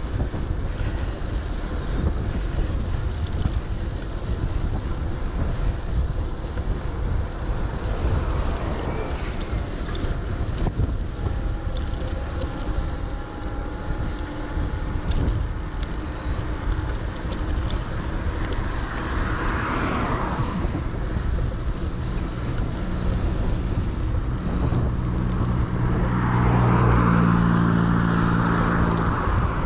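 Wind buffeting the microphone of a bike-mounted action camera while riding. Near the end a motor vehicle's low engine hum comes up and grows loudest for a few seconds.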